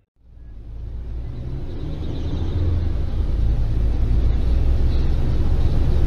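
A car driving: a steady low rumble of engine and road noise that fades in over the first couple of seconds and then holds.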